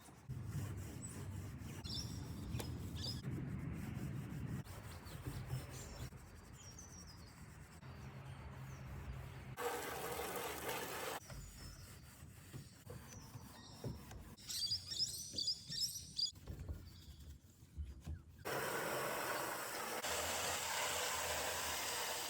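Outdoor background noise that changes abruptly several times, with birds chirping around the middle.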